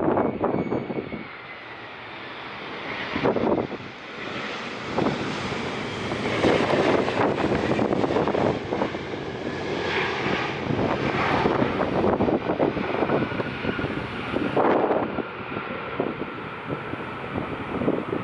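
An airliner's engines run loud and steady as the aircraft passes near the runway, building up a few seconds in and holding. Gusts of strong wind buffet the microphone over it.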